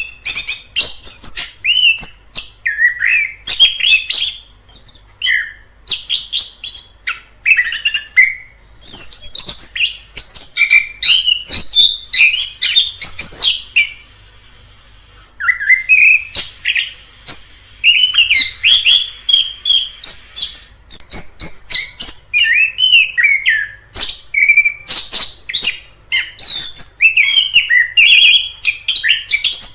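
Orange-headed thrush singing a long, varied song of quick rising and falling notes and sharp chips, with one short pause about halfway through.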